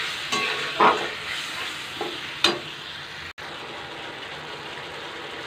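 Masala paste sizzling in hot oil in a metal kadai, just loosened with a splash of water, while a spatula stirs and scrapes it against the pan. There are two louder scrapes, about a second in and near the middle. The sound cuts out for an instant a little past halfway, then a steady sizzle carries on.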